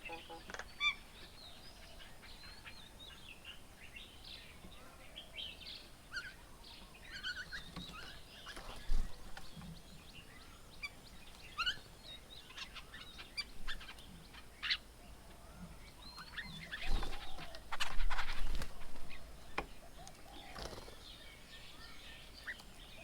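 Birds chirping and calling in many short notes. There are a few sharp knocks, and a louder burst of noise about seventeen seconds in.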